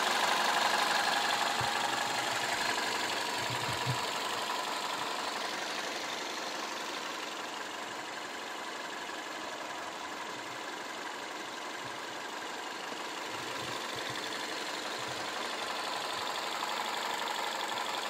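The Toyota Corolla's 1.6-litre 3ZZ-FE inline-four running steadily at idle, a continuous hum that eases a little in loudness and then builds again.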